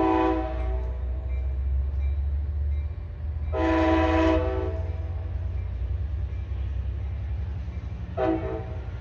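Passenger train's air horn sounding three chord-like blasts as the train departs: one cut short just after the start, a longer one about four seconds in, and a short one near the end. A steady low diesel rumble runs underneath.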